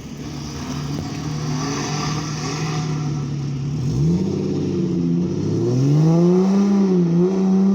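TVR Chimera's V8 engine pulling away. It runs at a steady note for about four seconds, then revs up with a rising, wavering pitch and grows louder as it accelerates.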